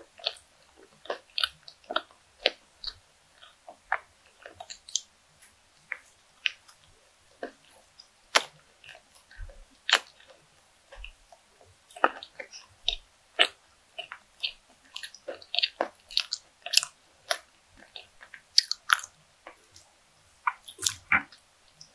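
A person chewing a mouthful of soft bread with the mouth closed: irregular sharp mouth clicks and smacks, growing busier in the second half.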